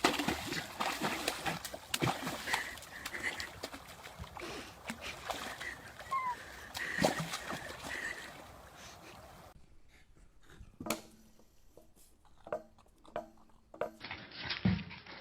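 Water splashing and sloshing for about the first ten seconds, then a much quieter stretch with a few scattered knocks.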